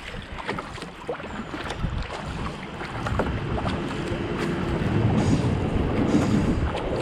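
Kayak paddle strokes splashing and dipping in the water at a steady racing cadence, with wind rushing on the microphone. The noise grows louder from about halfway through.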